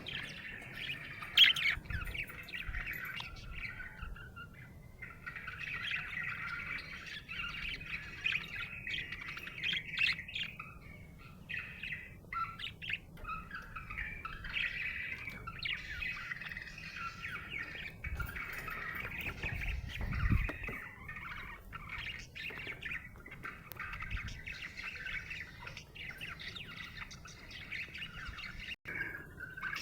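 Budgerigar chirping and warbling in a near-continuous chatter, with short clicks and squawky notes mixed in: the chatter of a happy budgie.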